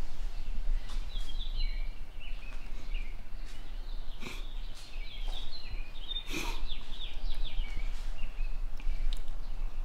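Small birds chirping and singing in quick, repeated short phrases over a steady low hum, with two sharp knocks, one about four seconds in and one about six seconds in.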